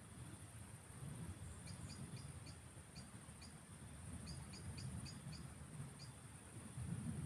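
Faint evening field soundscape: a steady high-pitched insect trill, with a small bird giving short chirps in little runs of two to five, and an uneven low rumble underneath.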